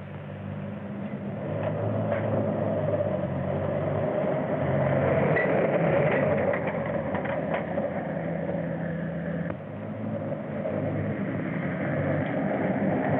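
Old motor vehicle running at speed: a steady rumbling engine drone with a noisy hiss on top, heard through an old, band-limited film soundtrack. It dips briefly about nine and a half seconds in, then picks up again.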